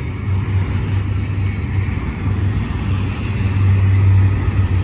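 Intermodal double-stack container train rolling past, a steady, loud rumble of wheels on rail.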